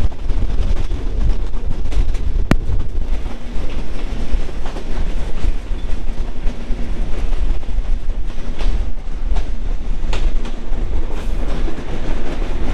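Benapole Express broad-gauge passenger train running, heard from an open coach door: a steady rumble and rush of wheels on rail with a faint clickety-clack of rail joints. One sharp click about two and a half seconds in.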